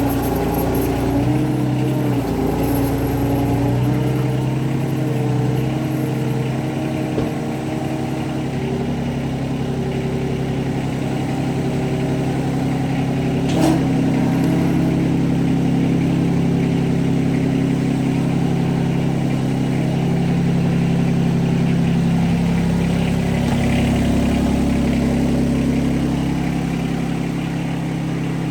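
John Deere 2320 compact tractor's three-cylinder diesel engine running steadily, its pitch shifting slightly now and then, with a single sharp click about halfway through.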